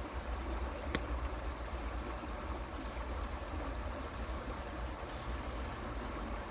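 Stream water flowing steadily, with a deep rumble underneath and a single sharp click about a second in.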